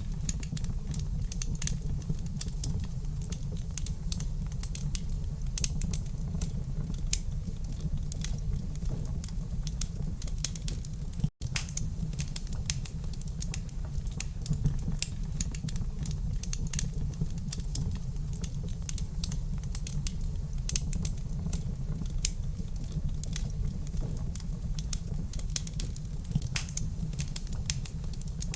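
Wood fire crackling in a fireplace: a steady low rumble of burning with frequent small, irregular pops and crackles. The sound cuts out for an instant about eleven seconds in.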